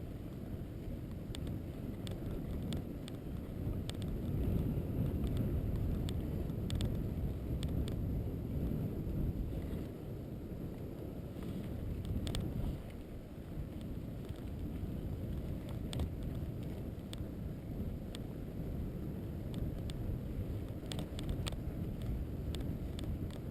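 Steady low rumble of a vehicle travelling along a rough road, with wind on the microphone and scattered light clicks and knocks; it swells about four seconds in and eases off near the middle.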